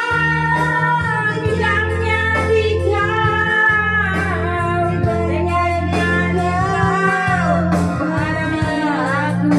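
A woman singing a song over instrumental backing, with long held notes that waver in pitch above a steady bass line.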